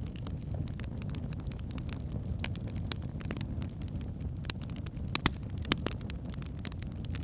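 Wood fire burning in a fireplace: a steady low rumble of flames with irregular sharp crackles and pops from the logs, the loudest pops about five and a half seconds in.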